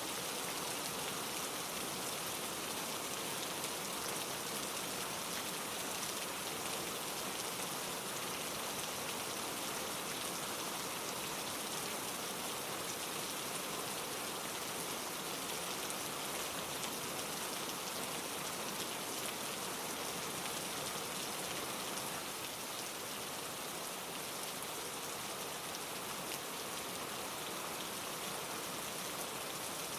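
Steady rain: an even hiss, dense with small drop hits.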